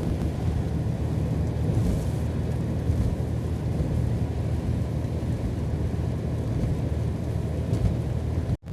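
Motor vehicle driving, a steady low engine drone with road rumble.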